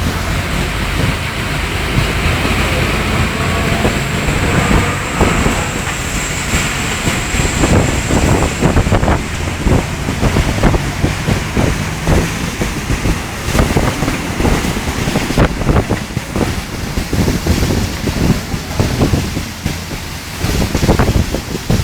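Heavy storm rain and strong gusting wind, a continuous roar with the wind buffeting the microphone in an uneven low rumble.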